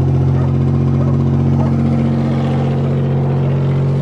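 Buick 3.8 V6 engine running steadily, having just caught on the second try after being crushed by a bulldozer.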